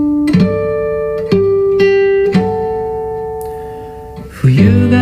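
A guitar plays an intro: single notes picked about a second apart ring on and slowly fade. Then a louder strummed chord comes in near the end.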